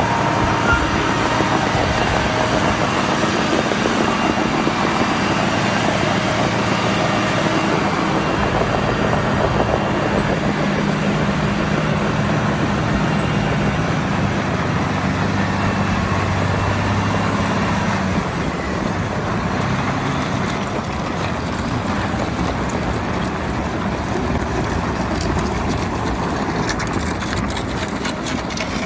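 Steady motor-vehicle noise: a low engine hum that drifts in pitch over a noisy din, easing a little about two-thirds of the way through.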